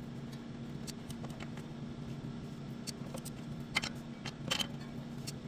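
A few sharp metallic clicks and taps of hand tools on engine parts while bolts are tightened, the two loudest about four seconds in, over a steady low hum.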